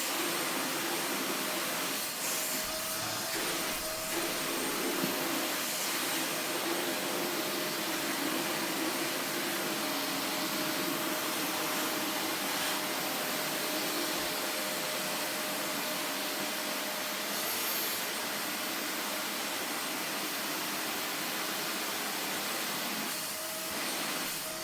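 Vacuum cleaner running steadily, with a faint steady whine above its noise.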